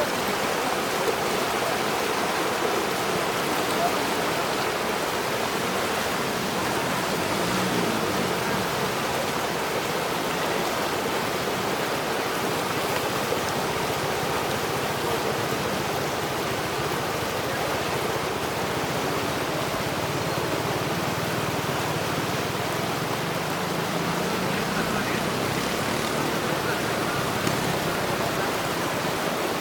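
Steady, even rush of water, unbroken throughout.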